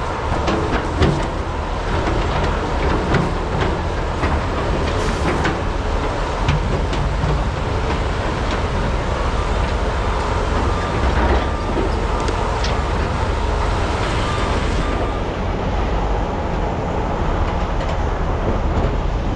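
Large hydraulic mining excavators' diesel engines running under load while digging and loading trucks, a steady heavy rumble with scattered knocks and clanks of bucket and rock.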